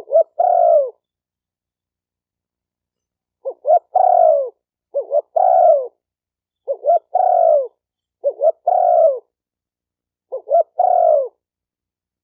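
Spotted dove cooing: about six loud phrases, each two short notes followed by a longer note that falls in pitch, repeated every second or so after a pause near the start.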